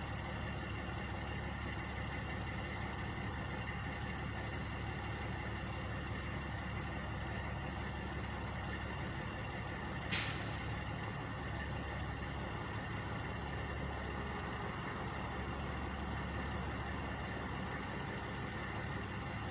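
Truck diesel engines idling steadily with a constant low hum. About halfway through there is a single short, sharp hiss.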